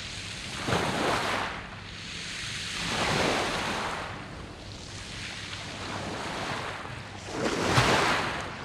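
Sea waves breaking and washing over a beach of smooth round pebbles, in repeated surges: one about a second in, another around three seconds, and the loudest near the end.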